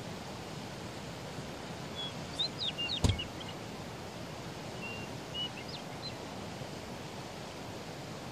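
Steady outdoor background hiss with a few high, thin bird chirps and whistles in two short runs, about two and five seconds in. A single sharp knock about three seconds in is the loudest sound.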